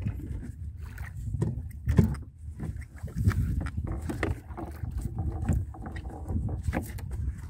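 Small fishing boat on a choppy sea: water sloshing against the hull under a steady low rumble, with frequent sharp knocks and thumps on board.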